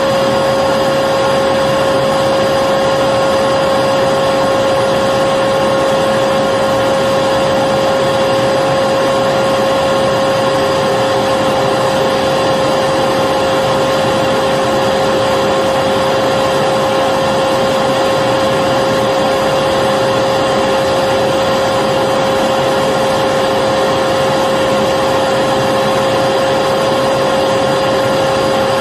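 Electric vacuum cleaner running steadily, its motor giving a constant hum with a high whine over the rush of air.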